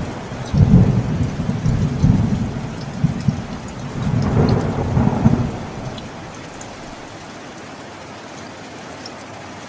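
A long roll of thunder rumbling and crackling over steady heavy rain, dying away about six seconds in to leave only the even hiss of the rain.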